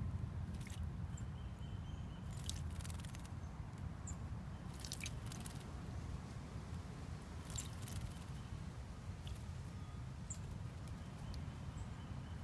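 Small songbirds splashing in a shallow bird bath, in four short bouts of quick, crackly splashing and wing-flapping, with a few brief high pips between them over a steady low rumble.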